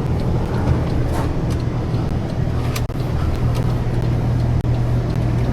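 Truck engine running with a steady low drone, with a few faint clicks over it.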